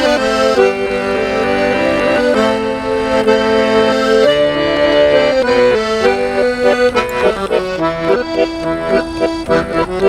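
Russian garmon (button accordion) playing the instrumental introduction to a song: long held chords at first, then shorter, quicker notes from about six seconds in.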